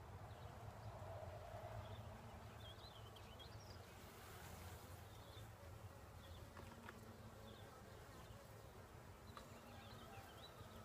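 Honeybees buzzing around an open hive during a frame inspection: a faint, steady, low hum of many bees.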